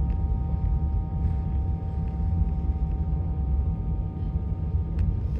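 Passenger train running on the rails, heard from inside the carriage: a steady low rumble of the wheels with a faint steady whine above it and a couple of light clicks.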